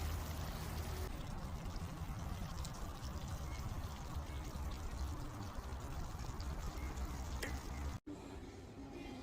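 Food sizzling in a frying pan, a steady hiss. It cuts off abruptly near the end and gives way to a quieter, different sound.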